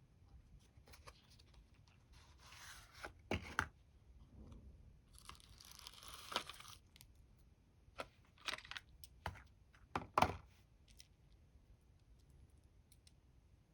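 Packaging being opened by hand: two spells of tearing and rustling paper or plastic wrap, with several sharp clicks and knocks from a small box being handled. The two loudest knocks fall near the middle and the last pair about ten seconds in.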